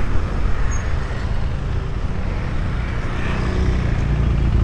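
KTM 390 Adventure's single-cylinder engine running at low speed, with road and traffic noise around it.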